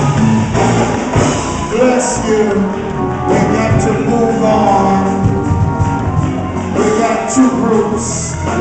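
Live gospel praise-break music: the church band plays loudly with drums, with voices singing or shouting over it.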